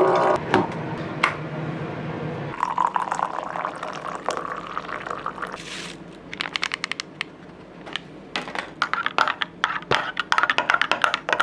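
Coffee being poured into a cup, a filling sound lasting a few seconds, followed by a run of quick clinks and taps of cup and spoon.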